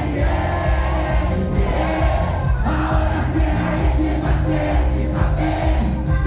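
Live cuarteto band music at full volume with a steady beat, with some singing voices over it.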